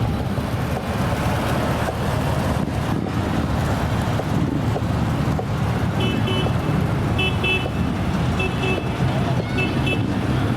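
Vehicle engine running steadily, with a short high electronic double beep that starts repeating about six seconds in, roughly once a second.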